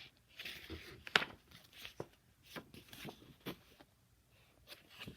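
Paper book pages being handled and turned: faint scattered rustles and soft clicks.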